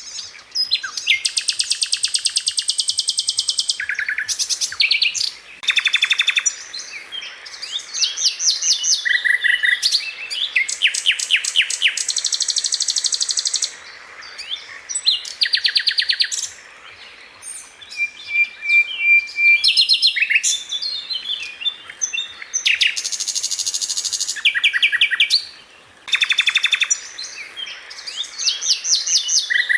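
Sikatan Londo flycatcher singing in a long run of fast, tightly packed phrases: rapid strings of repeated high notes and trills, one phrase after another with only short pauses between them.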